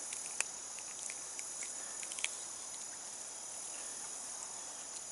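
Steady high-pitched chorus of insects, with a few scattered small clicks and ticks over it.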